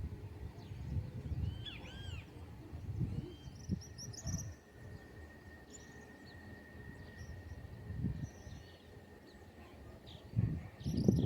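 Birds chirping in short arched calls over a low rumbling background noise, with a thin steady high tone in the middle. The low rumble swells louder near the end.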